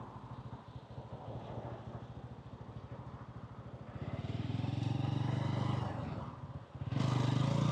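Exhaust of a 125cc motorcycle, running quietly at first, then getting much louder as the rider opens the throttle about four seconds in. It drops off briefly just before the end and comes straight back louder.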